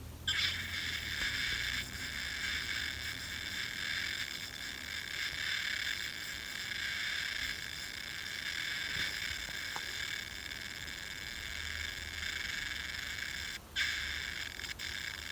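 Broken plush toy's sound module giving out a continuous buzzy electronic drone through its small speaker, instead of its normal sound. The drone cuts out briefly near the end.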